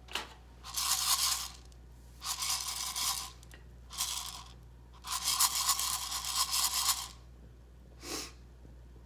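Coffee beans rattling and scraping against metal as they are shaken in bursts: four longer shakes, the longest about two seconds, and a short one near the end.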